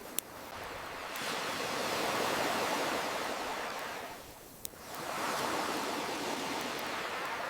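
Ocean waves washing ashore in slow swells, rising and ebbing twice, with two sharp pops from a crackling campfire, one right at the start and one a little past halfway.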